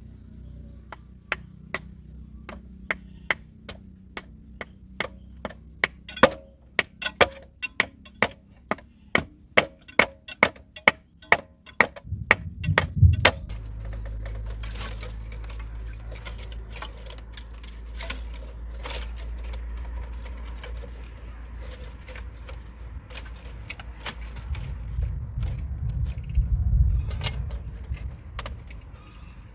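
Repeated sharp blows on wood, at first slowly, then faster at about two to three a second, stopping about thirteen seconds in. After that a low steady rumble with scattered clicks and taps.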